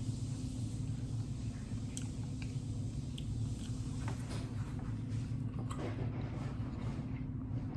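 Close-up chewing and lip-smacking, a scatter of short wet clicks, over a steady low hum.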